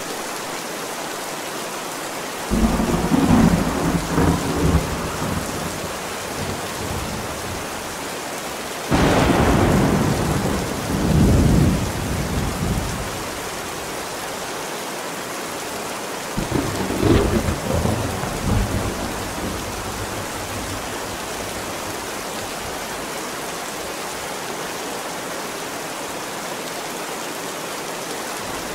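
Steady rain falling through a thunderstorm, with three rolls of thunder: one a couple of seconds in, a louder one with a sudden start about nine seconds in, and a third around sixteen seconds in, each rumbling for a few seconds before dying back under the rain.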